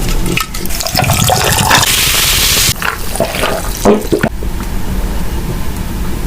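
Close-miked eating and food-handling sounds: crackling, with sharp crunchy clicks. About two seconds in comes a rushing hiss lasting under a second.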